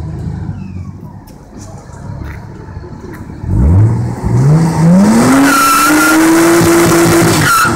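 Nissan RB25DET NEO turbocharged straight-six idling, then revved hard about three and a half seconds in, the pitch rising steeply and then held high while the rear tyres spin and squeal in a burnout. The revs cut off suddenly just before the end.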